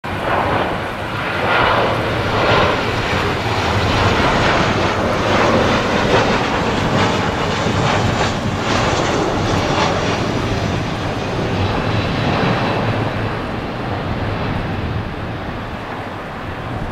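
Jet engines of a Boeing 737-800 (CFM56-7B turbofans) on landing: a loud, steady rushing jet noise that gets quieter and duller over the last few seconds.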